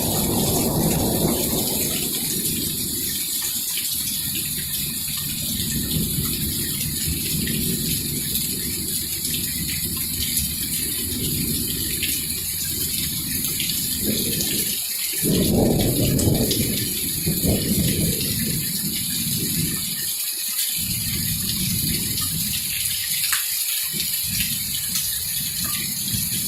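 Heavy rain falling steadily, with low rumbles of thunder from an approaching storm coming and going, the strongest a little past the middle.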